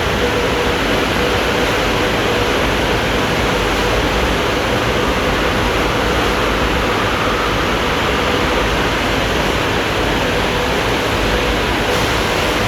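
California Kleindienst automatic car wash running: a steady, even rush of noise with a faint steady hum underneath.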